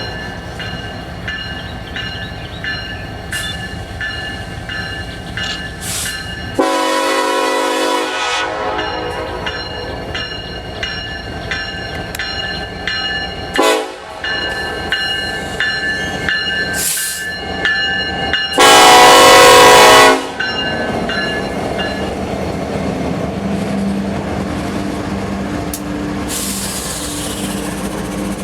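Freight train passing, its diesel locomotive horn blown twice: a blast of under two seconds about seven seconds in and a louder one about nineteen seconds in. Between them the train rolls by with a continuous rumble, steady high-pitched squealing and light clicks.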